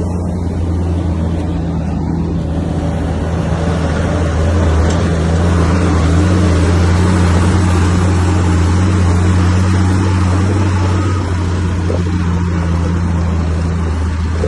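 Heavy diesel engine of earthmoving machinery running steadily with a deep drone, growing a little louder through the middle as it works.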